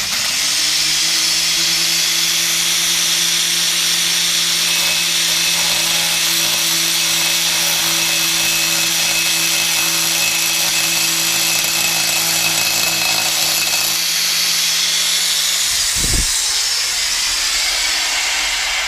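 Angle grinder with a stainless-steel cutting disc cutting into a stainless steel motorcycle header pipe: a loud, steady hiss of the disc in the metal over the motor's hum. The hum drops out about fourteen seconds in, there is a single thump a couple of seconds later, and the noise tails off at the end.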